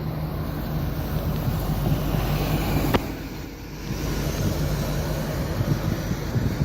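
Boeing 737-800 jet engines (CFM56) running during a landing approach, a steady roar mixed with gusty wind buffeting the microphone. A sharp click about three seconds in, followed by a brief dip in level.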